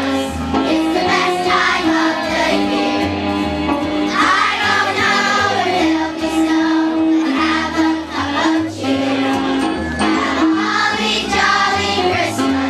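A children's choir singing a song together over an instrumental accompaniment with held notes and a bass line.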